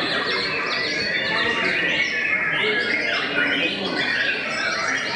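White-rumped shama (murai batu) singing a continuous, rapid run of varied whistled and chattering notes that sweep up and down in pitch, without pause.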